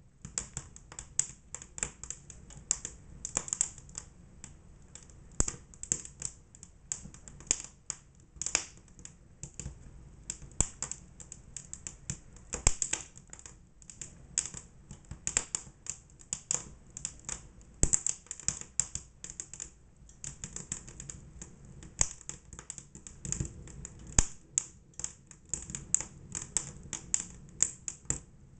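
Fire crackling: a constant, irregular run of sharp pops and snaps, several a second, with the odd louder crack.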